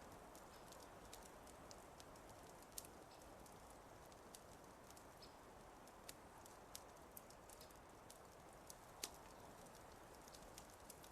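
Wood fire crackling faintly: scattered sharp pops and snaps at irregular intervals over a soft steady hiss, with one louder pop about nine seconds in.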